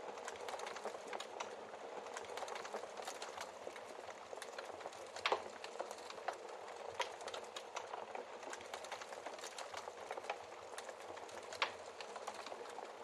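Wood fire burning in a fireplace: a steady soft hiss with constant small crackles and two louder log pops, about 5 seconds in and again near the end.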